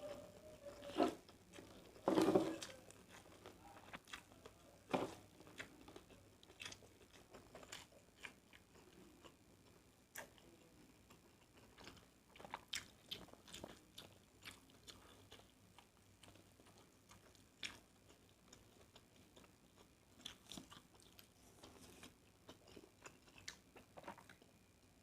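A person chewing and eating nasi goreng (fried rice), with scattered small clicks and taps throughout; the loudest come in the first five seconds.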